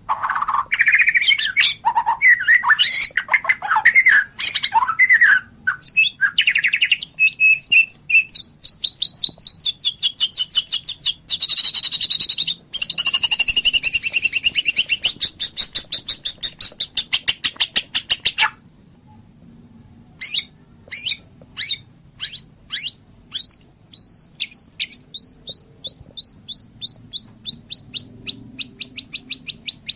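White-rumped shama (murai batu) singing loudly. It opens with varied whistles and slurred notes, then gives a long fast rattling trill. After a short pause about two-thirds of the way through comes a quick run of repeated down-slurred whistled notes, about four a second.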